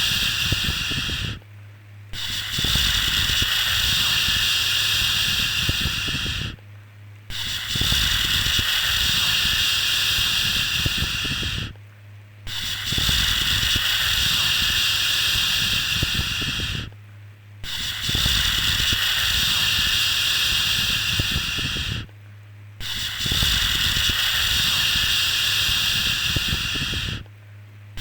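A long, steady 'shhh' shushing sound for soothing a baby, repeating about every five seconds with a short break between each one. A low rumble runs beneath it.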